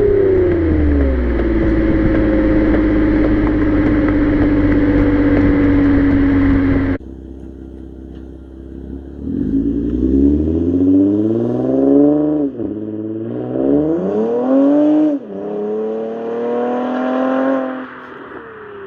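Toyota Camry XSE's 3.5-litre V6 with a Magnaflow exhaust and AEM cold air intake, driving. First it runs at a steady pitch under heavy road and wind noise, easing off slightly about a second in. After a sudden cut it accelerates hard, its pitch climbing and then dropping sharply twice as it shifts up, before it climbs once more and falls away near the end.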